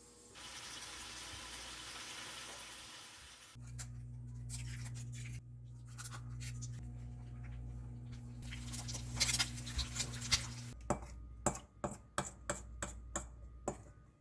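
Kitchen food-preparation sounds: a hiss for about three seconds, then a steady hum with scattered clicks, then a quick run of sharp knocks near the end.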